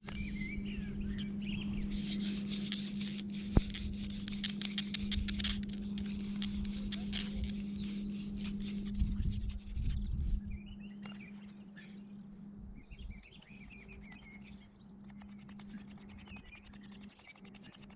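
Hand drill friction fire-lighting: a wooden spindle spun between the palms and drilling into a wooden hearth board, making a fast, dense rasping scrape under a steady low hum. The scraping stops about ten seconds in, and birds chirp after it.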